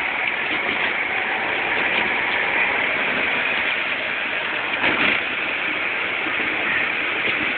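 1977 Porsche 930 Turbo's turbocharged 3.0-litre flat-six pulling in second gear, mixed with road and wind noise, heard from inside the cabin. A brief louder surge comes about five seconds in.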